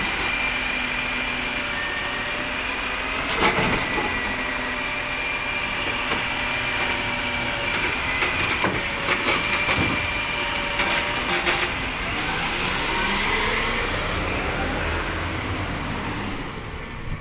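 Organics collection truck working: a steady hydraulic whine with clattering knocks, then the engine note rising as the truck pulls away and fades near the end.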